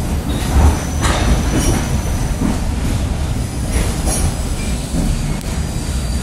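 Train running along the track, heard from inside the carriage: a steady low rumble of wheels on rails with a faint high thin whine above it. Short clattering knocks come about a second in and again around four seconds.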